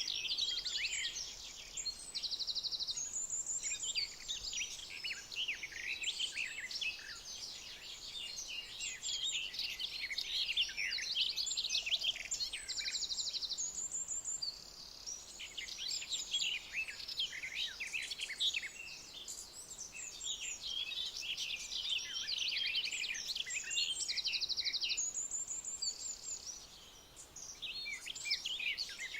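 Dense chorus of many songbirds chirping and whistling, with a short, rapid trill that comes back every few seconds.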